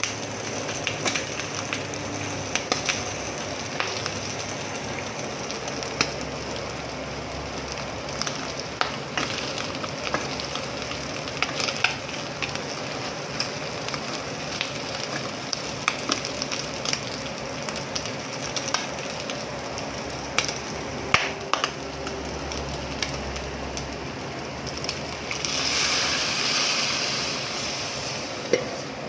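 Pork intestines sizzling as they fry in a stainless steel pot, with short knocks and scrapes from a wooden spoon stirring them. Near the end the sizzle swells to a louder hiss for a couple of seconds as the pork blood and vinegar mixture is poured into the hot pot.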